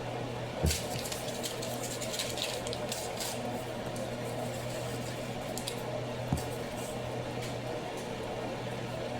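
Wet squishing and crackling as a thick mix of Velveeta cheese and bacon bits is stirred in a dish, with two sharp knocks, about a second in and near six seconds, over a steady low hum.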